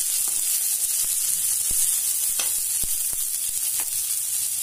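Onions, garlic, ginger and coriander leaves sizzling in hot oil in an iron kadhai. A steel spoon stirring them gives a few short clicks and scrapes against the pan.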